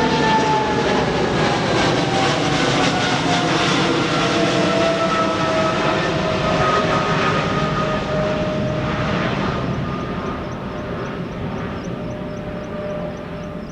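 Jet airliner's engines passing close by, a loud rush with a whine that slides steadily down in pitch as the plane goes past, fading over the last few seconds.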